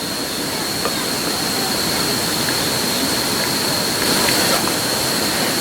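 Clay pot (donabe) of kimchi broth with sari noodles boiling hard on a charcoal shichirin, a steady rushing hiss.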